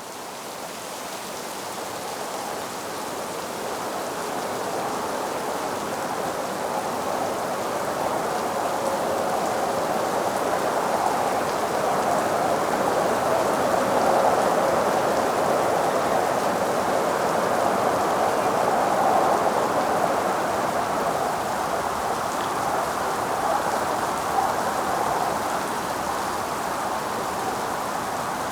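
Steady rain, a dense even hiss that swells up over the first ten seconds or so and then holds.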